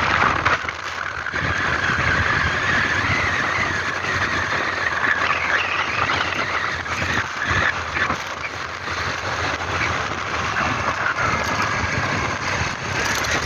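A vehicle on the move: steady engine and road noise.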